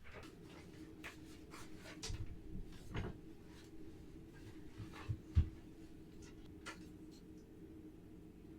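Light clicks, knocks and rubbing of household cleaning, with a few louder thuds about two, three and five seconds in, over a steady low hum.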